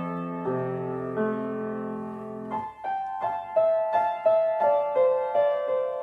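Piano playing a sustained chord, then a run of evenly spaced single notes starting about two and a half seconds in.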